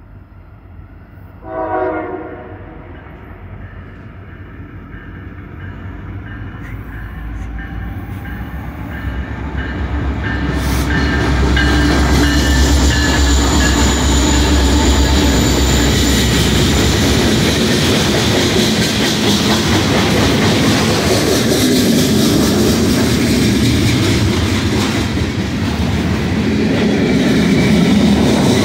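A freight train's horn sounds briefly about two seconds in. The train then approaches and passes close by: the diesel locomotives' low engine rumble builds and peaks, followed by the steady rumble and clatter of the freight cars' wheels rolling past on the rails.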